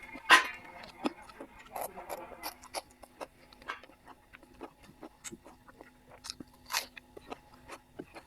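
Close-miked sounds of a person eating: chewing and biting, with many short wet clicks and crunches. A louder crunch comes just after the start and another near seven seconds.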